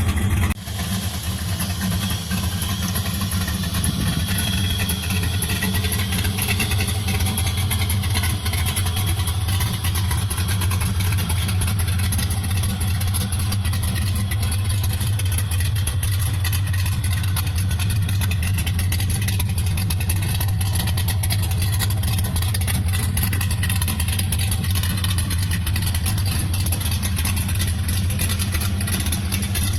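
Cammed Camaro with a full 3-inch exhaust, idling steadily.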